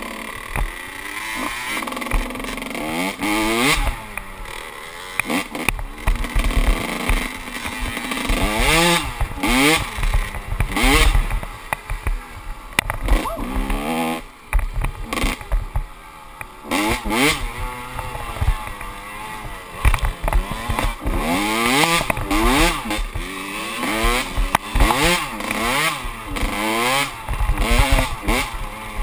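Kawasaki KX125 single-cylinder two-stroke dirt bike engine under hard riding, revving up and dropping back over and over as the rider accelerates and shifts. Wind rushes on the microphone throughout.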